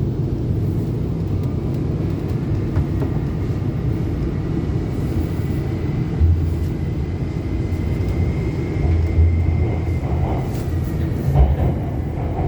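Guangzhou Metro Line 8 train running between stations, heard from inside the carriage: a steady low rumble with a few soft knocks. A faint high whine rises slightly and then falls away near the end.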